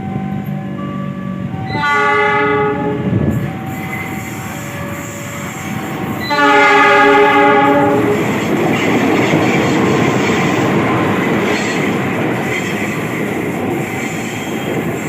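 Locomotive horn sounding twice, a short blast about two seconds in and a longer, louder one around six seconds, over the repeating electronic tones of the level-crossing warning alarm. After the second blast the train passes the crossing: a steady rumble and clatter of wheels on the rails.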